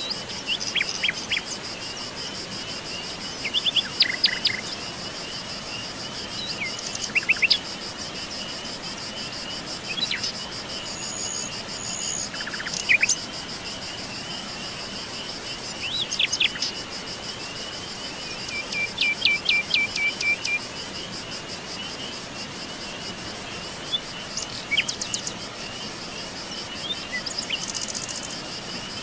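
Songbirds calling in short bursts of quick chirps and trills every few seconds, over a steady, high, pulsing trill of insects.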